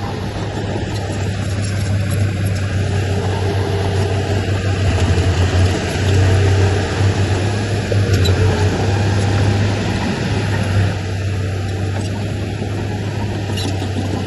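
Heavy diesel engine of an earthmoving machine, a bulldozer or dump truck, running with a steady low drone. It grows louder through the middle, as under load, and eases back after about eleven seconds.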